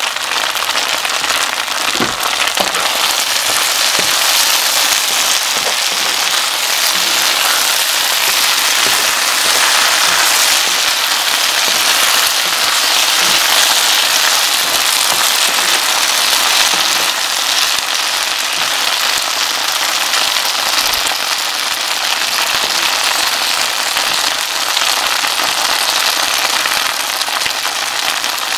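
Chicken, peppers and onions stir-frying in hot oil in a pan, sizzling steadily.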